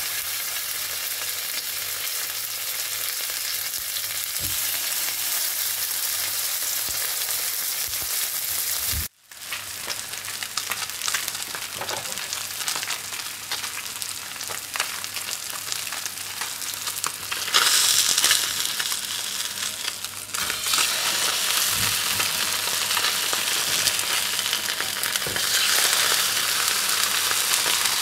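Salmon fillets searing in hot olive oil in a nonstick frying pan: a steady sizzle with scattered pops. The sizzle cuts out for a moment about nine seconds in, then comes back, and grows louder for about a second around eighteen seconds in.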